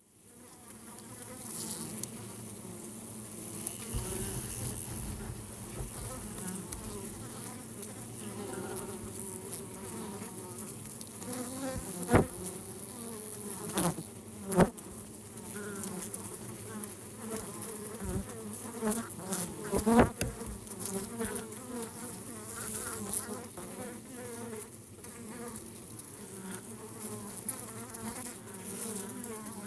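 Honeybees buzzing in a steady hum at a hive's flight entrance, with a few sharp taps, the loudest about two-thirds of the way through.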